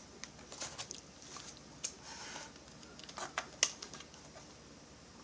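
Light, scattered clicks and taps of small metal parts and hand tools being handled, with some rustling, as E-clips are worked onto a chainsaw's chain-brake linkage.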